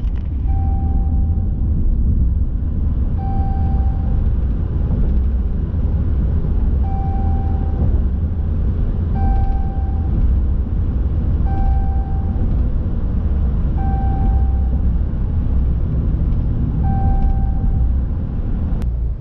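Steady low road and engine rumble inside a vehicle cab at highway speed. A short, steady, high tone recurs seven times, every two to four seconds.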